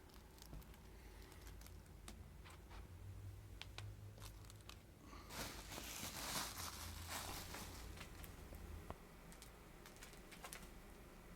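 Cellophane and bubble wrap handled close to the microphone as a foley imitation of a crackling fire: sparse crackles and pops, with a denser stretch of crinkling about five seconds in.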